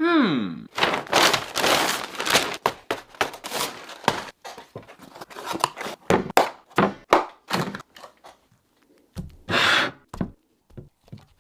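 Busy run of sharp taps, knocks and crinkling rustles from food and its paper packaging being handled, opened with a short falling tone; the knocks thin out after about eight seconds, and a louder rustling burst comes near the tenth second.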